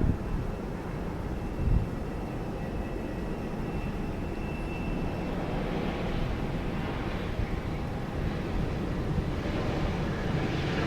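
Jet airliner engines running, a steady rush with a faint high whine, slowly growing louder toward the end. A couple of brief low thumps in the first two seconds.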